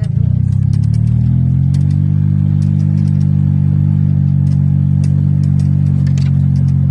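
Golf cart driving along, its motor giving a steady low drone that rises slightly in pitch over the first couple of seconds and then holds even. Scattered light clicks and rattles run over it.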